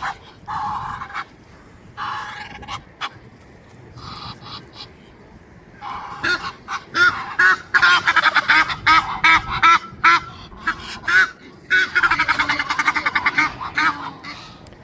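A flock of waterfowl calling together: a few separate calls at first, then two long runs of rapid, overlapping calls, one from about six seconds in and another around twelve seconds.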